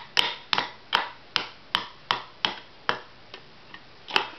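A child hammering: sharp hammer blows at a steady pace of about two and a half a second, growing lighter into a few soft taps, then one more hard blow near the end.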